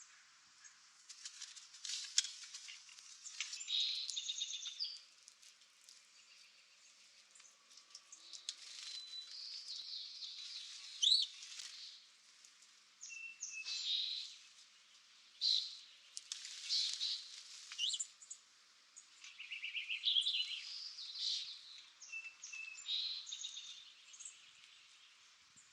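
Birds chirping and calling in scattered high-pitched bursts, some calls sweeping quickly in pitch, with quieter gaps between them.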